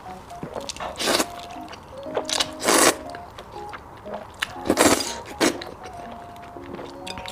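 Close-miked eating sounds: a few loud bites or slurps, about four, over soft background music with held notes.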